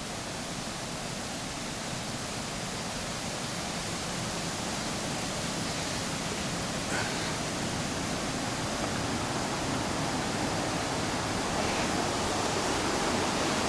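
Steady, even rushing noise like wind or rushing water, slowly growing louder, with one faint click about seven seconds in.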